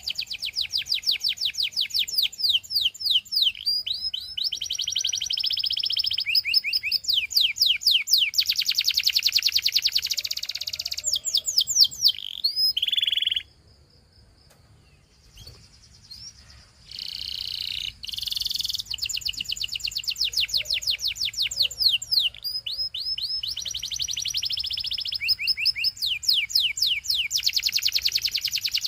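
Canary singing: long runs of fast, repeated sweeping notes in trills that change from one trill to the next. About midway the song stops for roughly three seconds, then starts again.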